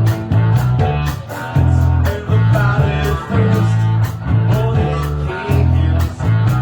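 Live band playing a rock song: guitar over heavy, changing bass notes and a steady beat of drums and cymbals.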